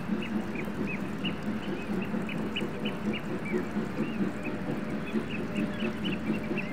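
Many birds calling with short, downward-sliding whistled notes, several a second and overlapping, over a steady low droning hum.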